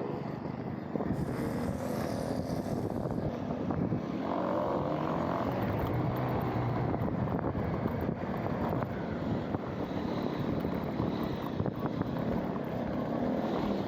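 Motorbike engine running while riding, with road and wind noise; the engine note climbs about four seconds in.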